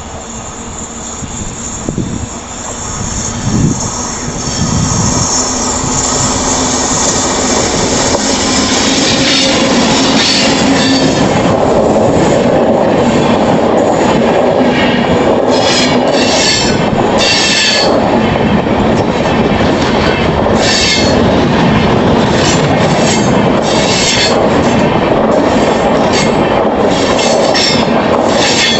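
Passenger train passing close on a curve: the sound builds over the first several seconds, then the coaches' wheels clatter over the rail joints and squeal against the curved rails.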